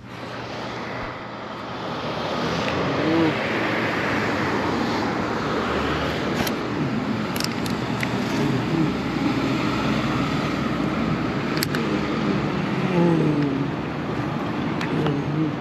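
City street traffic: a steady wash of car and road noise, swelling a little about two seconds in, with a few sharp clicks.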